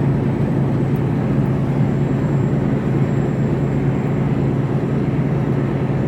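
Steady drone of a Mercedes Actros lorry cruising, heard inside the cab: engine hum with tyre and road noise, holding even throughout.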